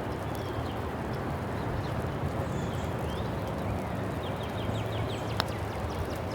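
Steady outdoor noise with small birds chirping on and off, including a quick run of short chirps near the middle, and a single sharp click about five seconds in.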